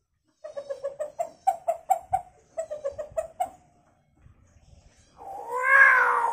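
Hill myna mimicking chicken sounds: a quick run of short clucking notes, about five a second, for some three seconds. After a short pause comes one long, loud call whose pitch wavers.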